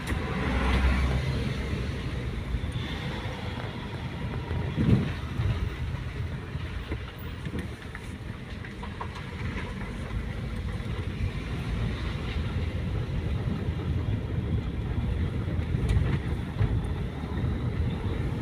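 Steady low rumble of a vehicle on the move, with a brief knock about five seconds in.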